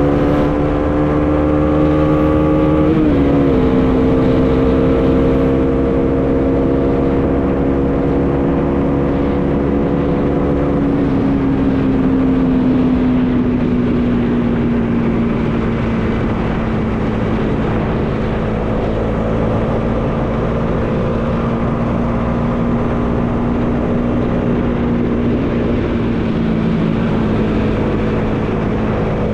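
Bajaj Dominar 400's single-cylinder engine running at a steady cruise under a rush of wind noise. The engine note drops slightly about three seconds in, eases lower again over a few seconds near the middle, then holds steady.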